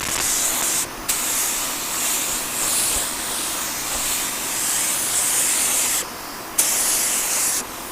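Compressed-air paint spray gun hissing steadily as it sprays clear coat onto an engine block. The trigger is let off briefly about a second in, and twice near the end, cutting the hiss off each time.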